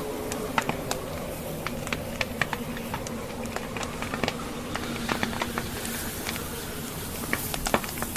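Wood fire burning in a fireplace, logs crackling with frequent irregular sharp pops, over a steady whoosh of blizzard wind.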